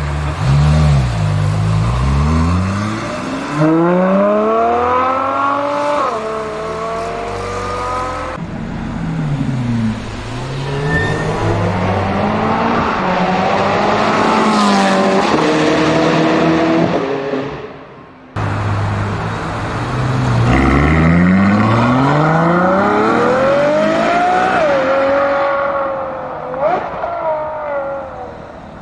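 Supercar engines accelerating hard in a string of short clips. Each engine note climbs steeply in pitch, drops at a gear change and climbs again, and the clips break off abruptly between them.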